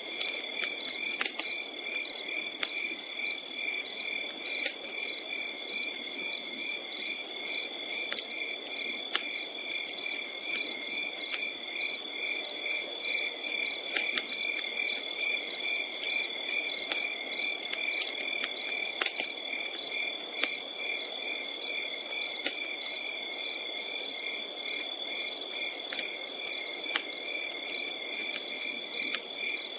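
Crickets chirping steadily: one unbroken high trill with regular pulsed chirps over it. A campfire crackles beneath, with irregular sharp pops and a low hiss.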